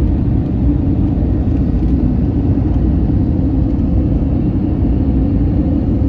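Airbus A321neoLR cabin noise heard from a window seat: a loud, steady, low rumble of engines and airflow with a faint steady hum, unchanging throughout.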